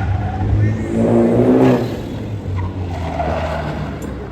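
Car engine running hard with tyres skidding on the tarmac, loudest about one to two seconds in.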